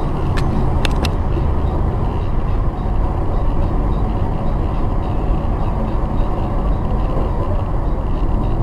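A car in motion, heard from the cabin: a steady rumble of engine and road noise. About half a second to a second in come three short sharp clicks.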